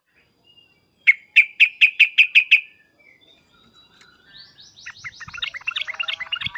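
Sooty-headed bulbul giving its agitated calls: a run of seven loud, evenly spaced 'cuk' notes about a second in, then, after a pause, a fast chattering series of notes from about four seconds in.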